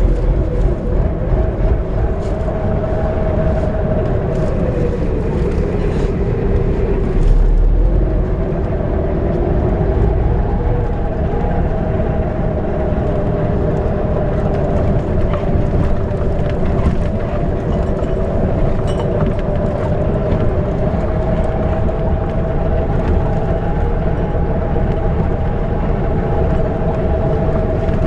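YaMZ diesel engine of an Ikarus-250 coach running under way, a steady drone with road noise. Its pitch sags about four to seven seconds in, then picks up again and holds steady.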